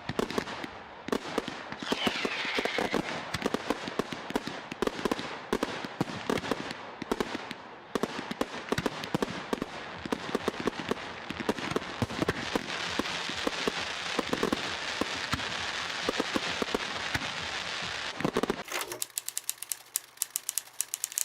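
Fireworks going off: a dense, continuous run of crackles and bangs, with a whistling firework about two seconds in. Near the end the crackling gives way to a fast, even run of sharp clicks.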